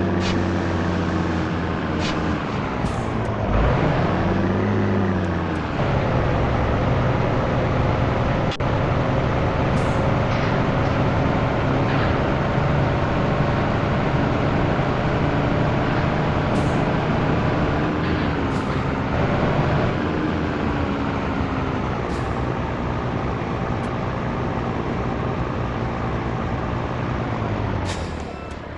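Scania T113 truck's six-cylinder diesel engine running under way, its pitch dropping and climbing again at gear changes about four seconds in, around twenty seconds and near the end, with a few short hisses of air.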